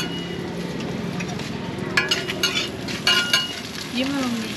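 A thin pancake-like pastry frying on a round flat griddle, sizzling steadily. Metal spatulas clink and scrape on the griddle several times around the middle.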